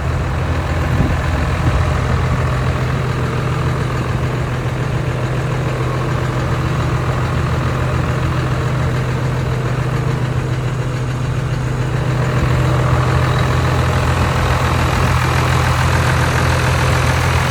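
Heavy truck engine idling steadily, a little louder in the last few seconds.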